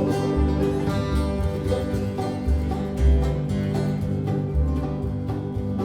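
Bluegrass band playing an instrumental break between sung verses: quick picked banjo and guitar notes over a steady, pulsing bass line.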